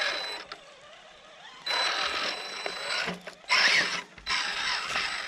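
Small electric motors and geartrains of scale RC crawler trucks whirring in several short bursts, stopping and starting, with a thin high whine while they run.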